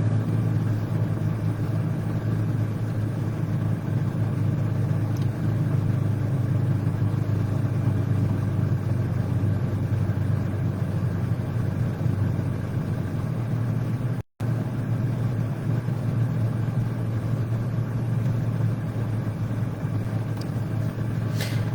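Steady low mechanical hum of a running motor, with a short dropout of the audio about fourteen seconds in.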